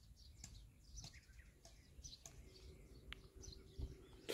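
Near silence outdoors, with faint birds chirping repeatedly.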